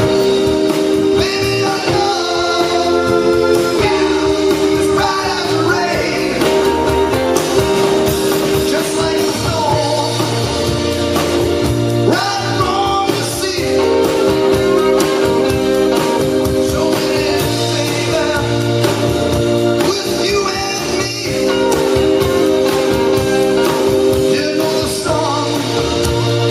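Live blues band playing, with a singer over held chords and a steady beat.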